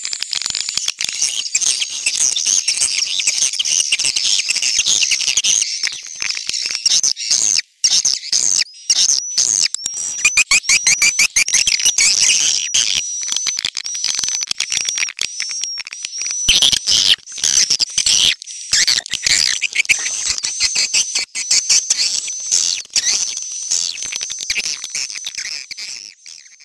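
Swiftlet lure-call recording: dense, high-pitched twittering and rapid clicking chatter of swiftlets, made to draw the birds into a nesting house. It fades out near the end.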